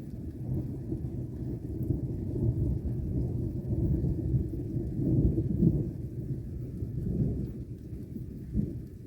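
Thunder rumbling on and on, swelling about halfway through, with a sharper clap near the end.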